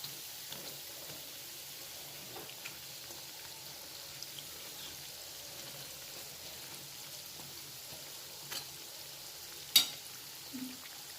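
Batti dough balls frying in hot oil: a steady sizzle with scattered small crackles and a sharp pop near the end.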